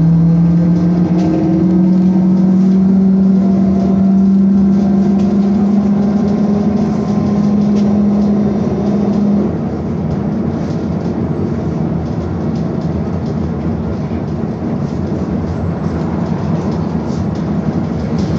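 Inside a BKM-221 articulated trolleybus, the traction drive's whine rises slowly in pitch as it accelerates, then cuts off about nine and a half seconds in. After that only a steady rumble of road and tyre noise remains.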